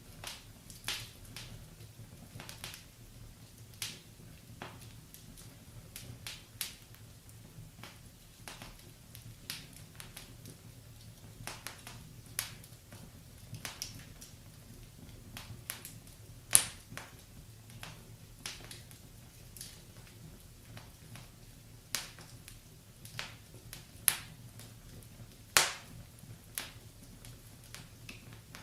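Wood fire in a fireplace crackling: irregular sharp pops and snaps, a few much louder about midway and near the end, over a faint steady low hum.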